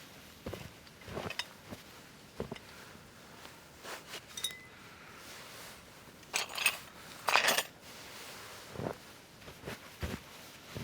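Scattered light clinks and knocks of hard objects, such as dishes, cutlery or glass being handled, with a short ringing clink about four and a half seconds in. Two louder clattering bursts come about six and a half and seven and a half seconds in.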